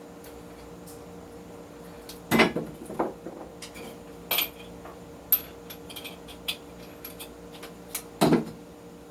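Metal tools and the cleaver clinking and clanking as they are handled on a workbench: two louder clanks, one about two seconds in and one near the end, with lighter clicks between, over a faint steady hum.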